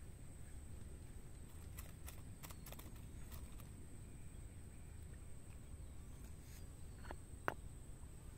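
Quiet outdoor ambience: a low rumble, a constant high thin hum, a few faint clicks about two to three seconds in, and one sharp click near the end.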